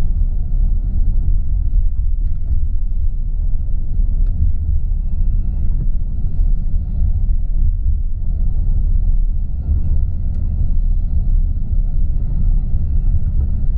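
Tour coach driving at steady speed, heard from inside the cabin: a continuous low rumble of engine and tyres on the road.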